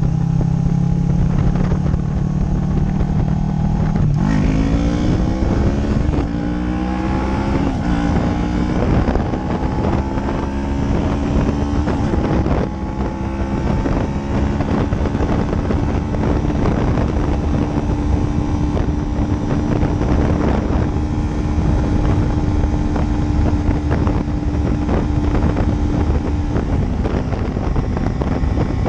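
Motorcycle engine accelerating about four seconds in, its revs climbing through a couple of gear changes and then holding steady at cruising speed. Wind rushes over the microphone throughout.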